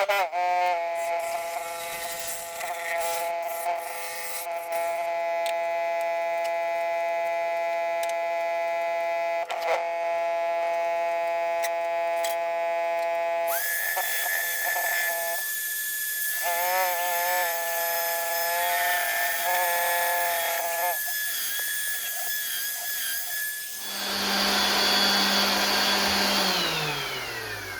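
Wood lathe running with a steady motor whine while a carbide tool cuts the spinning cedar and walnut bowl blank; the pitch shifts several times, and near the end the motor is switched off and winds down in a falling tone.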